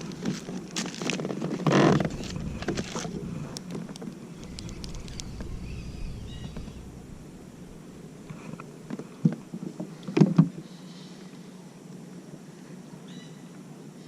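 Knocks and clatter of gear being handled on a fishing kayak: a run of sharp clicks and knocks in the first few seconds, then a few loud knocks about nine and ten seconds in.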